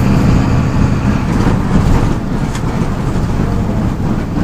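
MWM 6.12 TCAE six-cylinder turbodiesel of a Volksbus 17.210 EOD bus running with a steady low drone.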